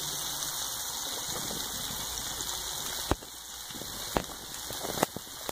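Chopped onion sizzling in melted margarine in a frying pan: a steady hiss, with a few sharp clicks about three, four and five seconds in.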